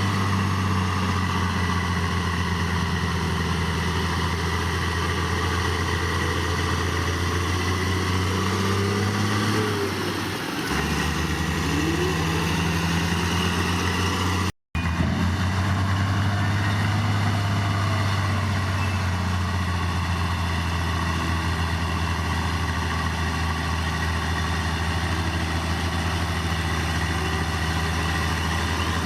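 Heavy diesel engine of earthmoving machinery running steadily; its pitch drops a little about a third of the way through, and the sound cuts out for an instant about halfway.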